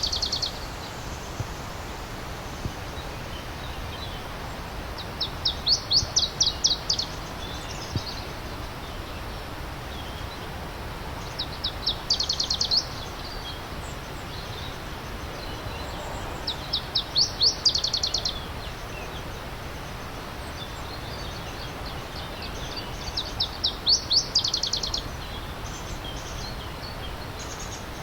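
A songbird singing a short, fast trill of high notes, each song lasting a second or two and repeated about every six seconds. Underneath runs the steady rush of a stream.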